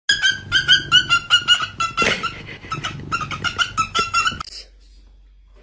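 A parrot giving a rapid run of short, squeaky calls, several a second and all at about the same pitch, stopping abruptly about four and a half seconds in.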